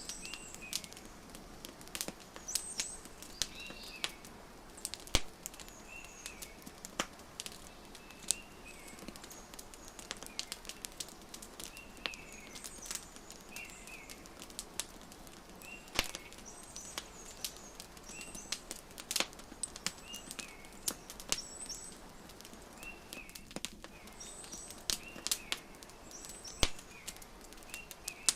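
Wood fire crackling, with frequent sharp pops over a soft steady hiss. Small birds chirp in short repeated calls every second or two behind it.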